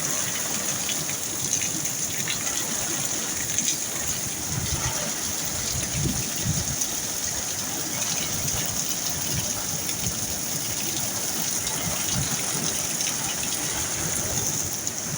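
Heavy rain pouring down steadily, a dense even hiss with scattered drop ticks.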